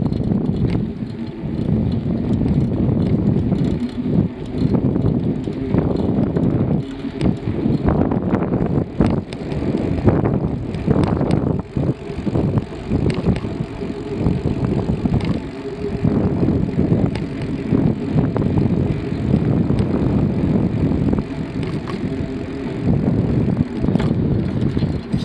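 Riding noise from a bicycle in motion: wind buffeting the microphone in a loud, uneven low rumble, with frequent short knocks and rattles as the bike goes over the path.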